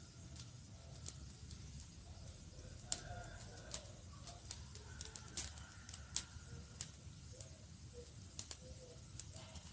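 Campfire burning wood: irregular sharp crackles and pops over a low steady rumble, with one louder pop about three seconds in.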